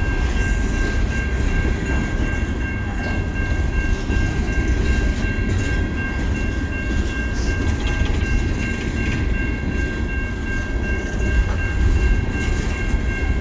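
Coal train's hopper cars rolling past: a steady rumble of steel wheels on rail with some clickety-clack, and a steady high-pitched ring held over it.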